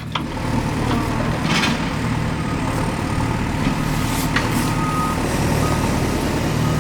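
A heavy vehicle's engine running steadily, with a reversing-type beeping tone sounding briefly past the middle.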